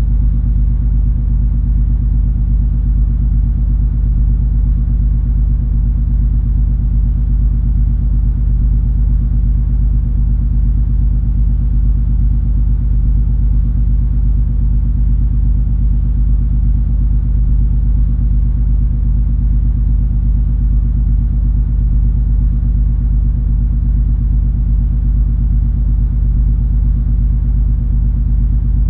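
Steady low rumble of the cruise ferry MS Color Magic under way: the ship's engines and hull droning with a few even low hums underneath, unchanging throughout.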